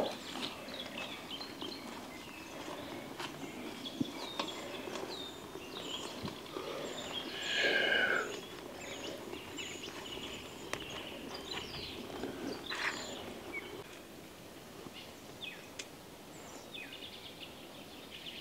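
Wild birds singing and calling in woodland: many short high chirps and a run of quick repeated high notes, with a louder call about eight seconds in. Scattered small clicks and knocks sound in between.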